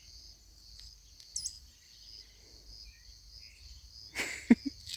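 Insects chirping in a steady pulsing drone, with a brief high bird chirp about a second and a half in and a short louder noise near the end.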